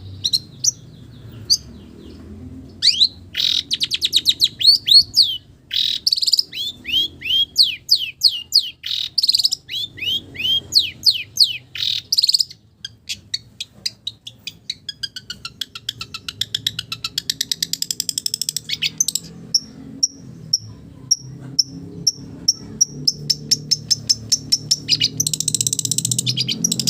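Long-tailed shrike (cendet) singing a varied song of rapid chirps and down-slurred whistles that mimic the calls of other village birds. Partway through comes a run of evenly spaced clear whistled notes, about one and a half a second, and near the end a fast, dense chatter.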